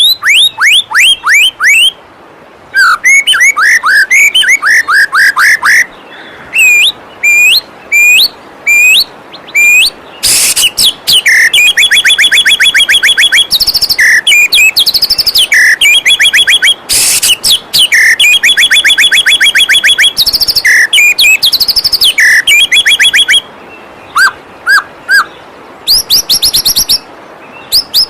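White-rumped shama (murai batu) singing: phrases of rapid, repeated sweeping whistles and fast trills, with short pauses between phrases. A steady rush of flowing waterfall water runs underneath.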